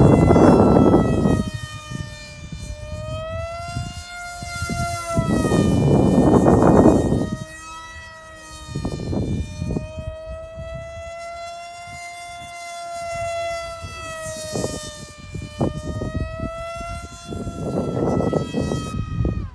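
Electric motor and propeller whine of a ParkZone Stryker RC flying wing in flight, its pitch slowly rising and falling as it flies about. Gusts of wind rush over the microphone, loudest at the start and again a third of the way in and near the end.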